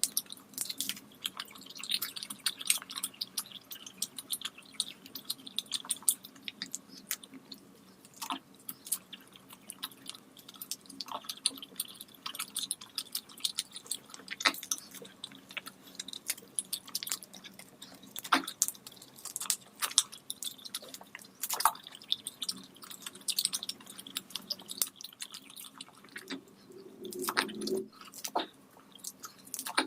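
Close-miked eating of rice and curry: wet chewing, lip smacks and squishy mouth sounds, coming as dense, irregular clicks.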